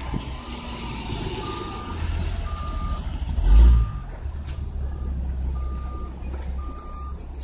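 A truck's reversing alarm beeps about once a second over the low, steady running of its engine. A low thump comes about three and a half seconds in.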